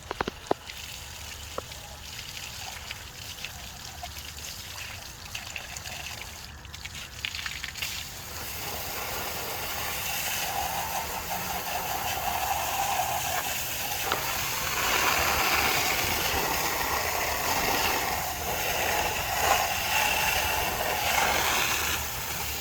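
Water spraying onto a lawn mower's deck and frame. It is faint with a few sharp clicks at first, then grows into a steady loud spray from about eight seconds in.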